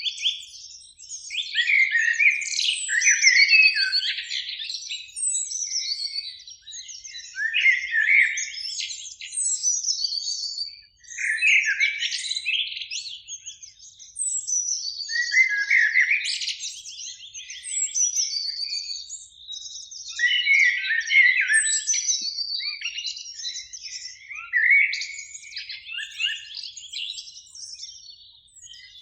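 Common blackbirds singing, one fluty phrase after another with short pauses between.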